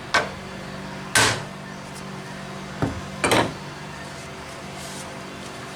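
Parts and tools being handled during magneto work on a small engine: four short sharp knocks and clatters, two of them longer, over a steady low hum.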